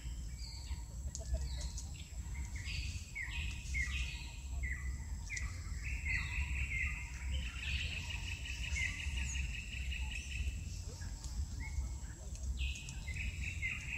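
Songbirds chirping and trilling in the tree canopy, with short calls repeated over and over and a longer trill about halfway through, over a steady low rumble.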